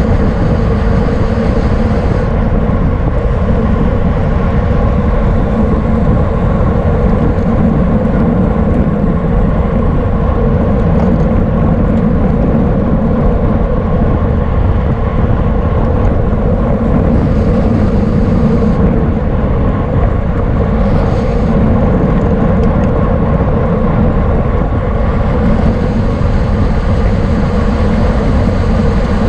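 Steady wind noise on the microphone of a camera riding on a racing bicycle at speed, with a steady hum underneath.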